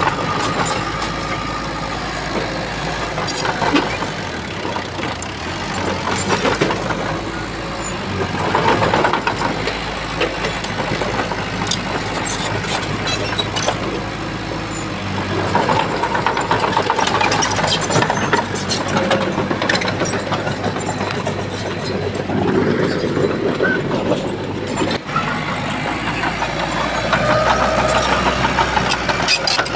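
Shantui bulldozer's diesel engine running steadily as it works, its pitch rising and falling from time to time, with scattered sharp clanks.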